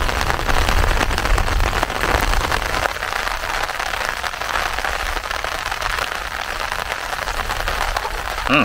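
Steady rain falling on open water, an even hiss of drops, with a low rumble under it for the first three seconds.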